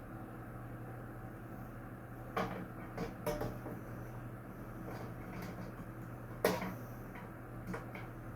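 A series of short knocks and clatters, a few close together around the middle and the loudest one about six and a half seconds in, over a steady low hum.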